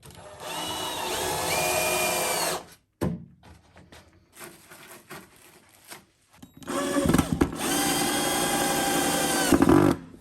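Power drill whining in two runs of about two and three seconds, with a short knock between them.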